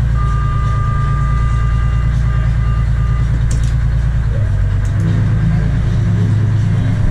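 Tour boat's engines idling, a steady low rumble. A thin, steady high tone sounds over it for about three seconds near the start.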